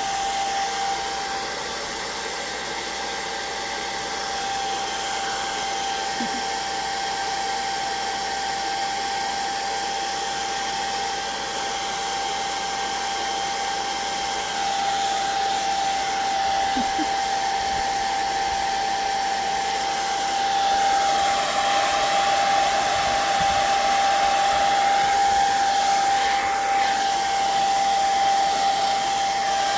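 Handheld hot-air dryer blowing steadily, a whine over a rushing hiss, drying the wet watercolor and ink on the paper; it grows louder about halfway through and again near two-thirds of the way.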